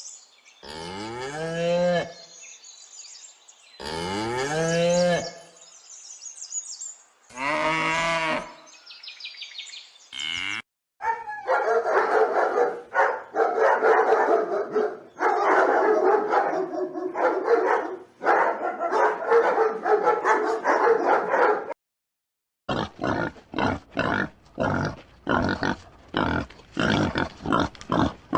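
Cow mooing three times, each a long pitched call of one to two seconds. A long, dense stretch of overlapping animal noise follows. Near the end come rapid short grunts, about two a second, typical of a pig.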